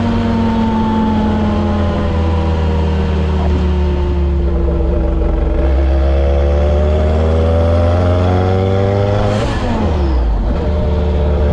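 Kimera EVO37's 2.1-litre turbocharged and supercharged four-cylinder pulling under load, the engine note dipping a little and then rising steadily for several seconds. Just over nine seconds in the revs drop sharply, as at a gear change or lift-off, with a short falling whistle.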